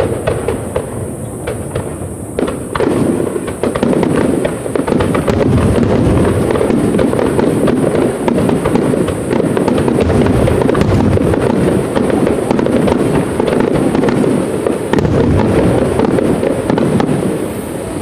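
Aerial fireworks display in a dense rapid barrage, many shells bursting with overlapping bangs and crackles. It thickens about two and a half seconds in and eases near the end.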